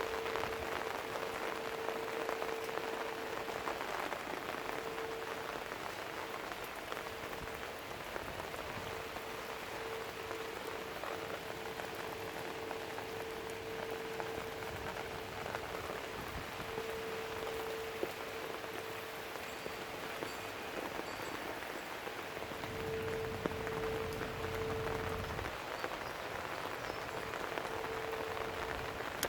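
Steady rain falling and pattering on surfaces, with a steady low hum underneath that swells and fades, and a brief low rumble about three-quarters of the way through.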